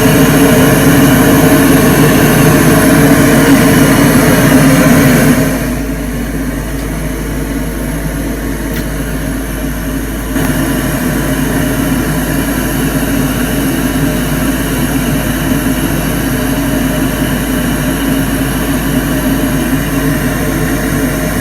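Loud, steady hiss-like test noise played through a sound truck's speaker system while it is being tuned. About five seconds in, the upper range drops away suddenly, and the level steps up again about ten seconds in, as the settings are changed.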